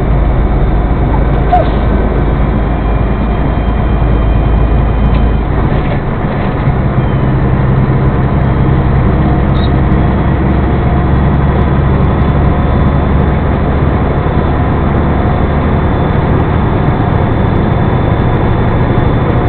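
Steady engine and road noise of a moving motor vehicle, with a low engine hum. The deepest part of the hum fades about six seconds in, as if the engine note changes.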